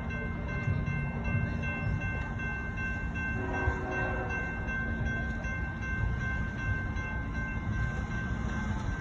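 A train rumbling past a grade crossing, with steady high ringing tones that stop near the end. A brief pitched sound comes about three and a half seconds in.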